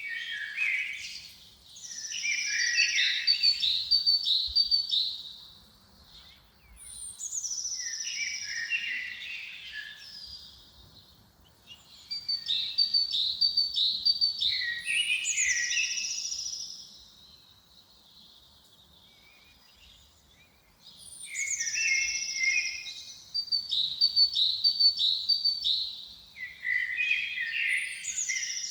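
A songbird singing the same phrase over and over, about five times, with pauses of a second or more between. Each phrase opens with a high falling whistle and runs into quick repeated notes.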